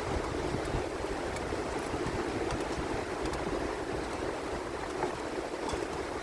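Steady rolling noise of a pedal railcar's steel wheels on the rails, with gusty wind buffeting the microphone.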